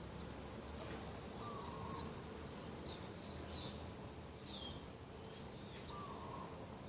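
Birds calling: scattered short high chirps and quick down-sweeping whistles, with a brief lower note twice, about a second and a half in and again near six seconds, over a steady faint background hiss.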